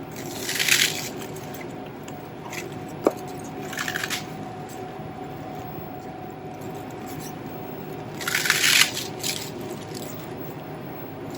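Chopped cabbage and leafy greens being tipped and pushed into a soup pot: three short crunchy rustles, with a single sharp click about three seconds in. A steady kitchen hum runs underneath.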